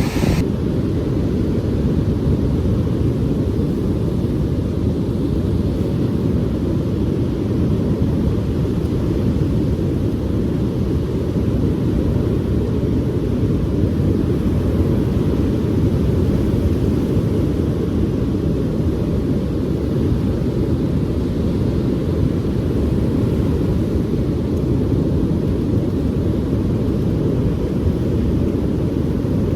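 Wind buffeting the microphone: a steady low rumble with little above it.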